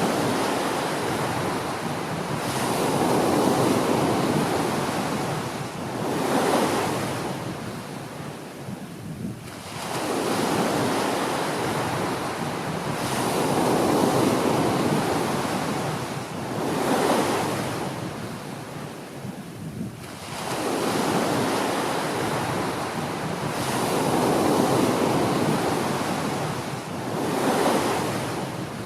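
Small ocean waves breaking and washing up a beach, three wave cycles about ten seconds apart. Each wave swells into a rushing surge, gives a shorter second rush, then dies back.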